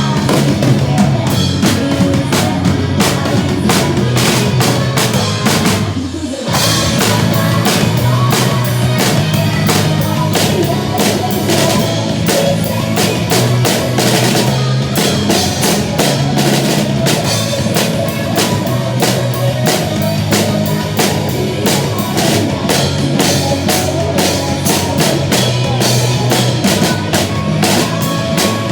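Drum kit played to a rock backing track: a steady beat of bass drum, snare and cymbals, with a short break about six seconds in.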